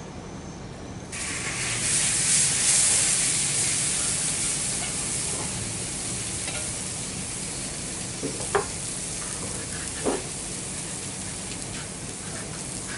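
Food going into hot oil in a metal wok and sizzling, starting suddenly and loud about a second in and easing off slowly while it is stirred with a spatula. Two sharp knocks of the spatula against the wok, about a second and a half apart, in the second half.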